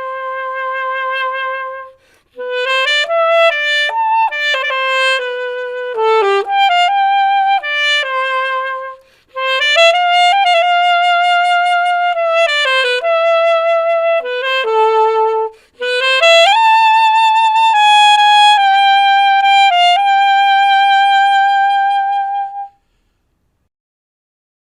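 Alto saxophone playing an unaccompanied melody in several phrases of held and moving notes, with short breaths between phrases; the playing stops a couple of seconds before the end.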